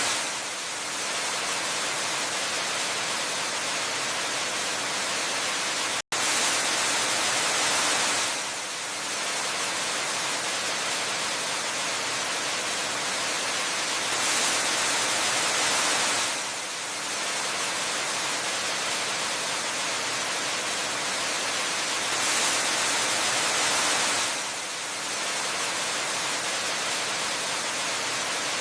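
Waterfall: a steady rush of falling water, brighter and a little louder for a couple of seconds about every eight seconds, with a split-second dropout about six seconds in.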